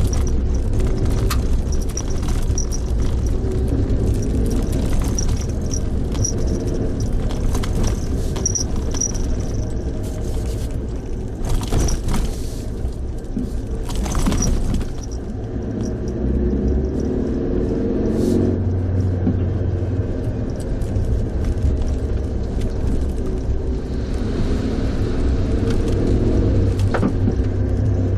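A car being driven, with a steady low engine and road rumble whose pitch rises and falls with speed.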